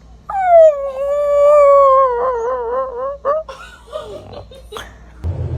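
A dog howling: one long call that falls in pitch, holds, then wavers, followed by a few shorter yowls.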